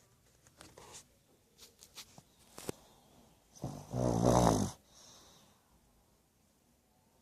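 Pug snoring: a few short, fainter breath sounds, then one loud pitched snore about four seconds in, lasting about a second.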